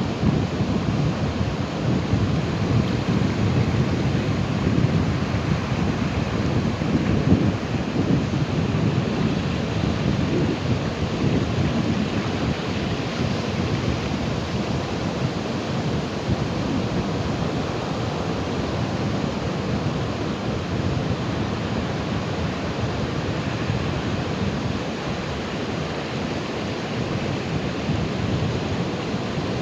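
Ocean surf: waves breaking and washing in as a continuous rushing noise with a deep rumble, a little heavier in the first half and easing slightly later.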